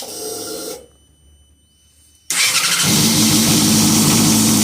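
Yamaha R6 inline-four motorcycle engine being started with its voltage regulator unplugged to get past the error code: a brief whir at the start, then about two seconds in it cranks, catches and runs loudly and steadily.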